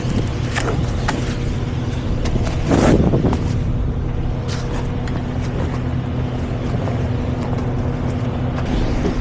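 Semi truck's diesel engine idling steadily, with scattered clicks and knocks and a short rushing noise about three seconds in.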